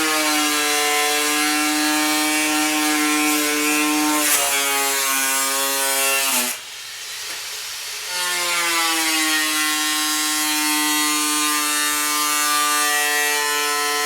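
An electric power tool cutting sheet metal, its motor whine dropping in pitch as it bites into the metal, with a hiss over it. It stops about six and a half seconds in, then starts again with the same falling whine about a second and a half later.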